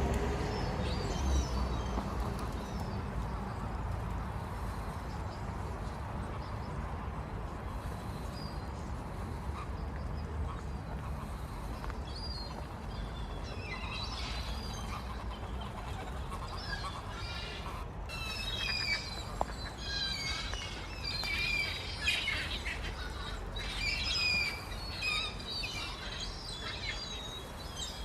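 Birds chirping and calling in many short, high notes, sparse at first and busy through the second half, over a steady low rumble.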